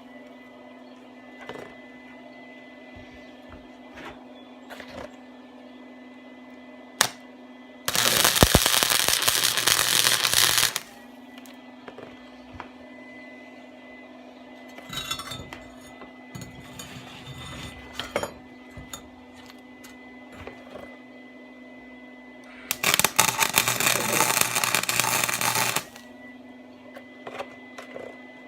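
Welder laying short beads on exhaust pipe: two bursts of steady crackling of about three seconds each, one about a third of the way in and one near the end, with a steady electrical hum between them.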